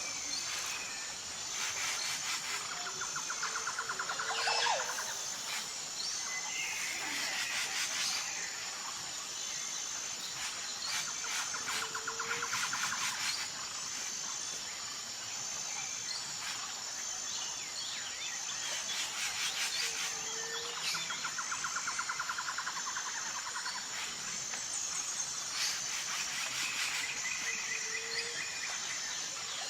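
Tropical forest ambience: a steady, high-pitched pulsing insect trill, with a bird's chirping and trilling phrase repeated about every eight seconds.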